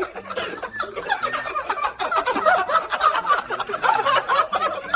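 People laughing and giggling, a run of short choppy laughs.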